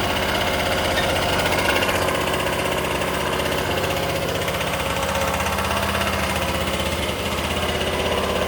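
Yamaha YSR50's small two-stroke single-cylinder engine idling steadily just after a cold start, running on its own after two kicks.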